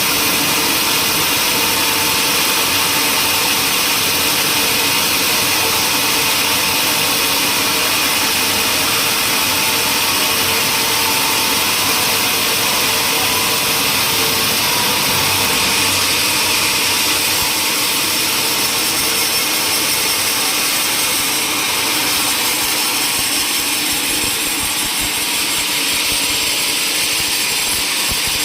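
Sawmill machinery running steadily, with loud, unbroken noise like a saw working through timber and no break or change.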